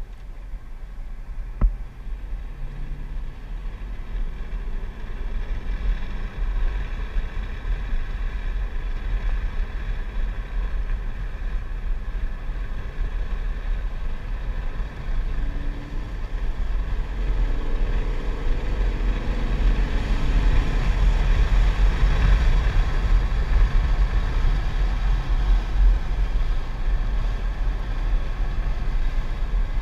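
Chevrolet Corvette C7's 6.2-litre V8 running hard on track, heard inside the cabin over a heavy low rumble of road and wind noise; it grows louder about two-thirds of the way through. A single sharp knock sounds about two seconds in.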